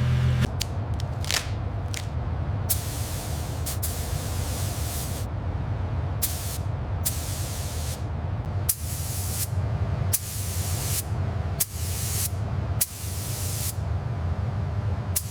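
Repeated bursts of hissing spray, some brief and some lasting about a second, over a steady low hum.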